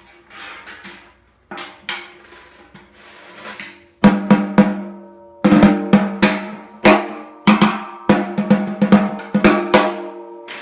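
A restored CB700 snare drum with freshly fitted heads, played with sticks. It starts with light, scattered taps, then from about four seconds in gives loud, sharp hits, each followed by a ringing tone from the heads.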